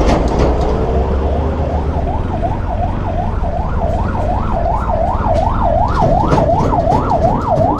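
Ambulance siren in its fast yelp, rising and falling about two and a half times a second and growing louder as it comes closer, over the low rumble of the motorcycle's engine and wind.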